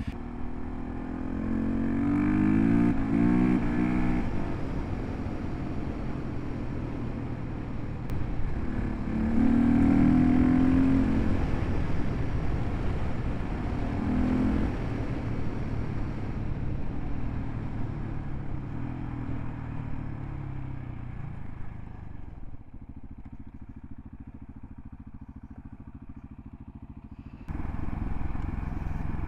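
Gas Gas ES 700 single-cylinder enduro motorcycle engine running under way, revving up in several bursts of acceleration in the first half. It drops quieter for a few seconds late on, then picks up again near the end.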